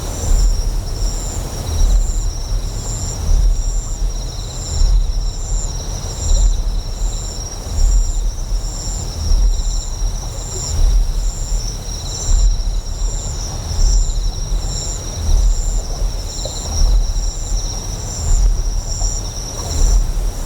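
Ambient mix of a deep generator hum that swells in a slow pulse about once a second, under a steady high trill of chirping insects.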